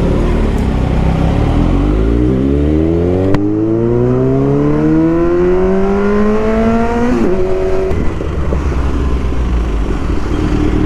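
Kawasaki Z900's inline-four engine accelerating, its pitch climbing steadily for about six seconds. The pitch drops sharply about seven seconds in at a gear change, and the engine then runs on at a steady pitch.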